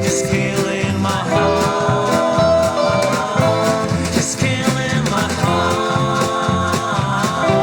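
Rockabilly band playing an instrumental passage: a guitar plays held notes with string bends over a steady upright bass line and drums.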